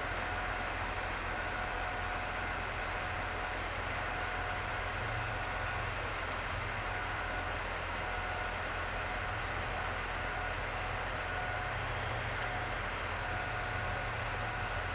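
Steady low hum and rumble of a train standing at a station, with faint steady tones over it. Two short high chirps come about two and six seconds in.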